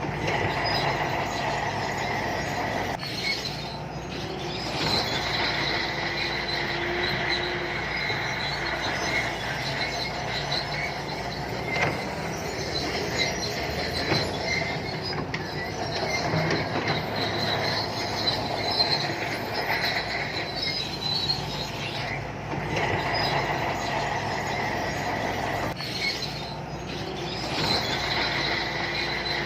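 Shantui crawler bulldozer working: diesel engine running under a steady high-pitched squeal from the steel tracks, which fades briefly a few times.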